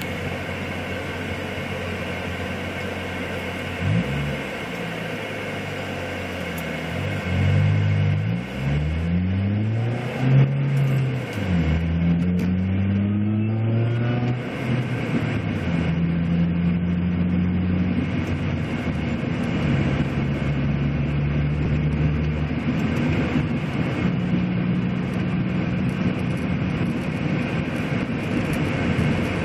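A car's engine heard from inside the cabin, climbing in pitch and dropping back through several gear changes as the car accelerates, then running steadily at cruising speed. A steady rush of wind and road noise runs underneath.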